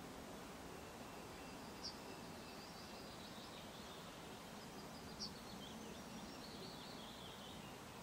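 Faint bird calls over a steady background hiss: two short, sharp high calls, about two and about five seconds in, and a thin, high twittering near the end.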